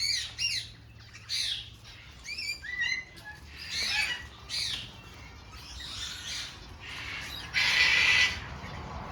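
Parrots squawking in a series of short calls, with one louder, harsh screech near the end.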